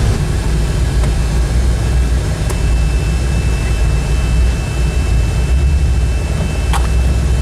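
Steady, loud, low vehicle rumble with no change in pitch, a faint high whine over its middle part, and a couple of small clicks.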